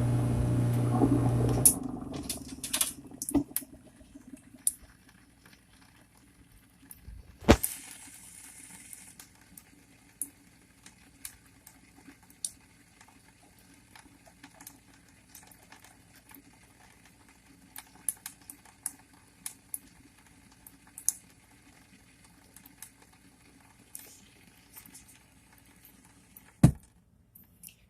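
A garbage disposal motor runs with a steady hum and shuts off about a second and a half in. After that, foaming disposal cleaner fizzes and crackles in the drain with scattered small pops, and there is one sharp knock about seven seconds in.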